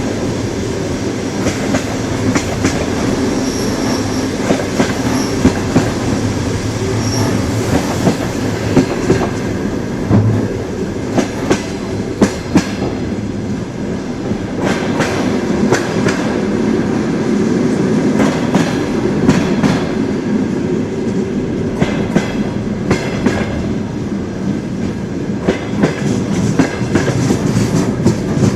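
Train wheels rolling along the rails: a steady low rumble with irregular clacks as the wheels cross rail joints, and a faint high wheel squeal a few seconds in.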